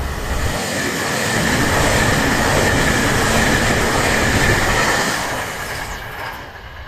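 Tobu N100 series Spacia X electric limited express passing through a station at speed without stopping: a loud rush of wheels on rail with a steady high whine running through it. It swells over the first two seconds, holds, and fades about five to six seconds in as the train goes by.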